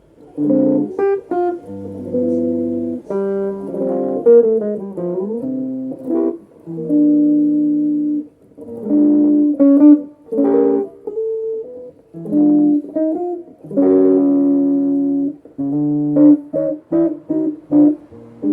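Electric guitar, a Vintage V100 Lemon Drop Les Paul-style solid body, played through a Boss ME-25 multi-effects into a Peavey Backstage Plus solid-state practice amp. It plays stop-start chords and short single-note licks, with string bends about four to five seconds in.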